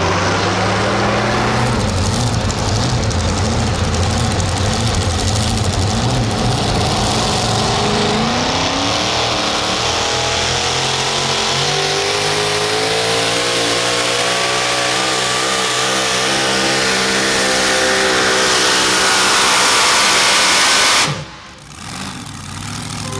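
Super modified four-wheel-drive pulling truck's engine running hard under load on a pull, its pitch climbing steadily through the second half. The sound cuts off suddenly near the end.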